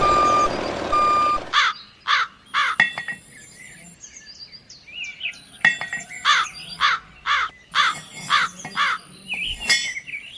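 Crows cawing: about ten short, harsh caws in two runs, with faint chirps of smaller birds between them. A loud noisy rush fills the first second and a half.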